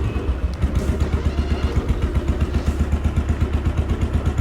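Royal Enfield Thunderbird 350's single-cylinder engine running at low revs, with an even beat of several pulses a second and a brief dip about half a second in.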